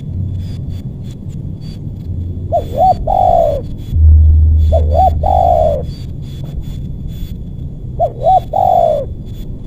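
A spotted dove (tekukur) cooing three times, each call two short notes and then a longer falling coo. A low rumble runs underneath and swells around the second call.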